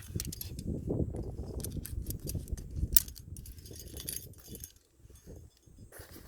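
Climbing hardware (carabiners and quickdraws on a harness) clinking and jangling with scuffs and scrapes as a climber moves up a rock slab, with one sharp metallic click about three seconds in.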